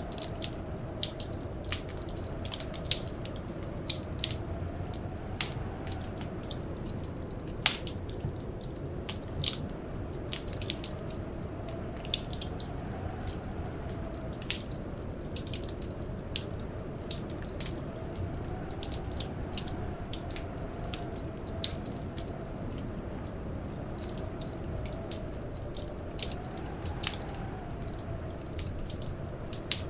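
Wood fire crackling, with frequent irregular sharp pops and snaps over a steady low hiss. A faint blizzard wind howl slowly rises and falls beneath it.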